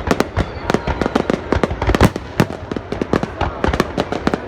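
Aerial fireworks exploding in quick succession, a dense run of sharp bangs and crackles several per second, with a few louder booms.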